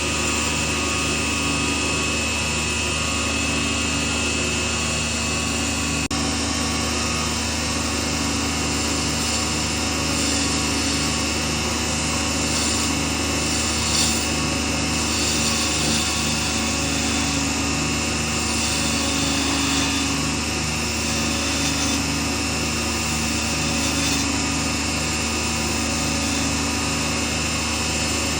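Small lathe running steadily, with a tool working the spinning pen blank so that a brighter scraping noise swells and fades several times midway.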